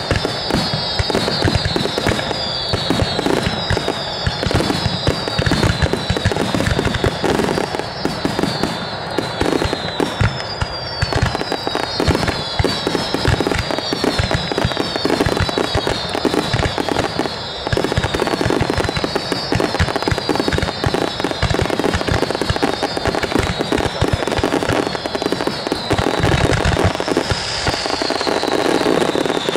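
Starmine fireworks barrage: a dense, continuous run of shell bursts and crackling, with high whistles falling in pitch repeating about once a second over it.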